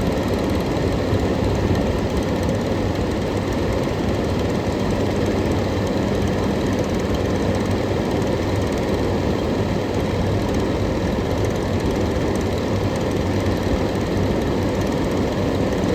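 A 1991–1992 Kenmore 18,000 BTU window air conditioner running with its compressor on: a steady, loud rush of air from the condenser fan over a low, even hum.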